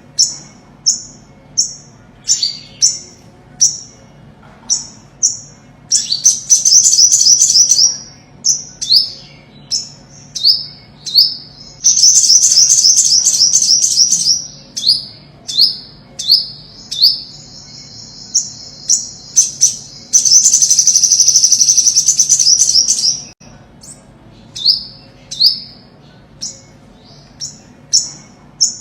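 Olive-backed sunbird singing: a run of short, high notes, each falling in pitch, about two a second, broken three times by a rapid buzzy trill lasting about two seconds.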